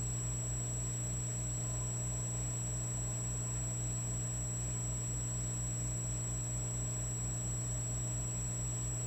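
Electric fireplace log set humming steadily: a low electrical buzz with a few steady tones over it and a faint low throb pulsing about four times a second.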